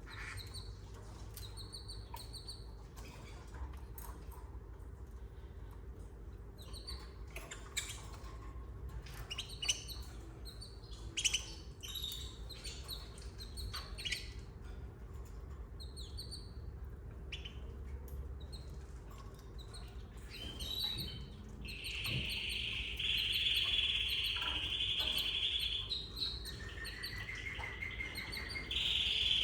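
Domestic canaries chirping, with a few sharp clicks among the short calls. About two-thirds of the way in a long buzzy trill starts, pauses briefly with a short rising note, and starts again near the end, over a faint steady hum.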